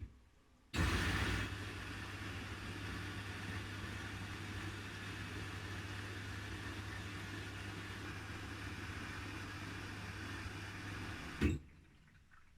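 Haier I-Pro Series 7 washing machine moving water mid-cycle: a steady electric hum with rushing water switches on suddenly about a second in. It runs for about ten seconds and then cuts off with a clunk.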